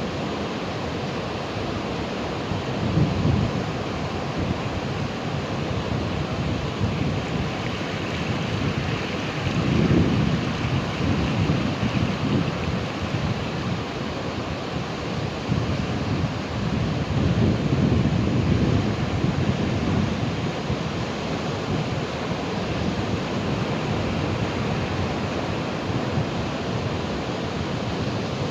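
Ocean surf: a steady wash of breaking waves with a deeper rumbling swell about every seven seconds, the heaviest about ten seconds in and again a little after the middle.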